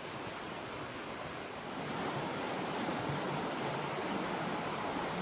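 Steady rush of a flowing creek, getting a little louder about two seconds in.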